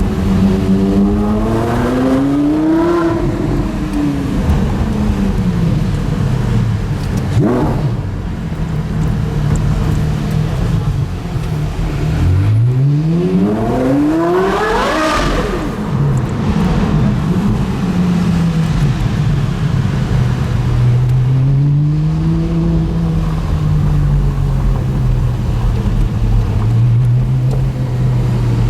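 Porsche Carrera GT's 5.7-litre V10 with a straight-through exhaust, driven through the gears. A short rise in revs comes early and a quick blip about seven seconds in. About halfway through there is one hard acceleration with a steep, high-pitched rising wail, after which the engine settles back to low, steady revs.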